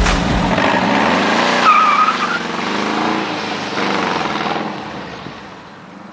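Air-cooled Volkswagen Beetle's flat-four engine revving as the car accelerates away. The engine note climbs, drops about two seconds in and climbs again, with a short high squeal around the same moment, then fades as the car goes into the distance.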